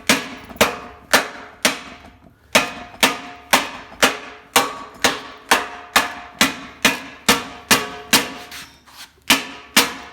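A steel slapper striking a sheet-steel patch panel's flange against a thick spring-steel bar, folding the edge over. The sharp metallic strikes come about two a second, each ringing briefly, with short pauses about two seconds in and near the end.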